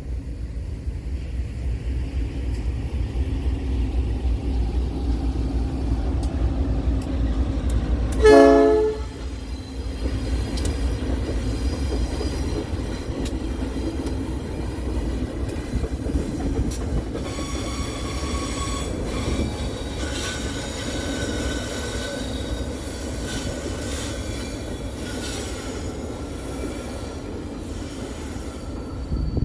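Locomotive-hauled MRS relief train rumbling past. Its locomotive horn sounds one short, loud blast about eight seconds in. From about halfway on, the wheels squeal in thin, steady high tones.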